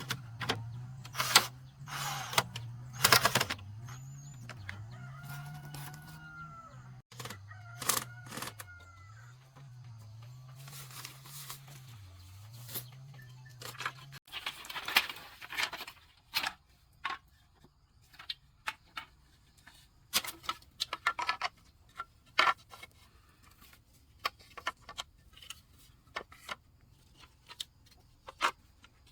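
Irregular sharp knocks and taps, with chickens and a rooster crowing in the background in the first half.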